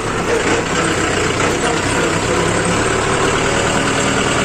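Mahindra 415 DI SP Plus tractor's four-cylinder diesel engine running steadily at a low, even speed.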